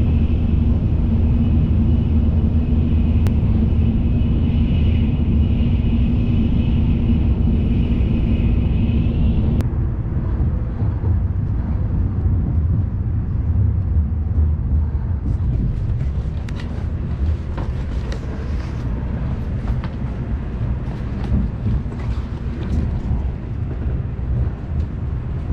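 Shinkansen bullet train running, heard from inside the passenger car: a steady low rumble with a steady high tone over it that stops abruptly about ten seconds in. From about fifteen seconds in, light clicks and taps sound over the rumble.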